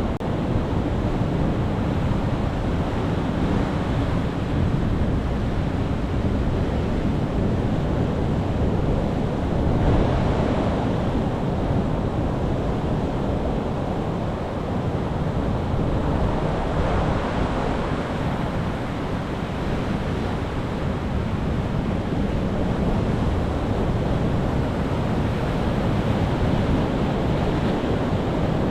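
Sea waves breaking on a shore: continuous surf, with waves swelling about ten seconds in and again around seventeen seconds.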